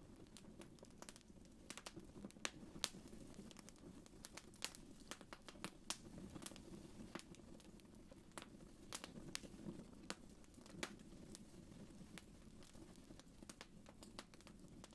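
Wood fire crackling in a fireplace: irregular sharp pops and snaps, several a second, over a soft low rumble of the flames.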